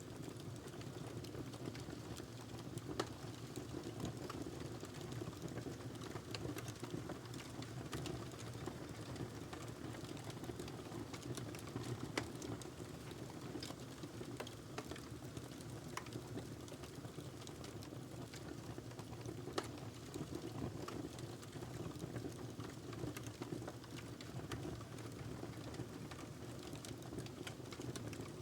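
Wood fire burning in a fireplace: a steady low rumble of flames with irregular crackles and pops throughout, and a few sharper snaps.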